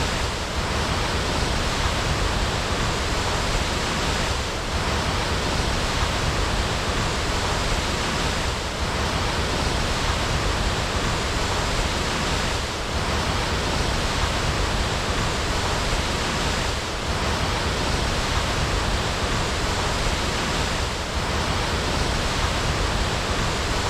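Waterfall: a steady, dense rush of falling water with no other sounds, dipping slightly about every four seconds.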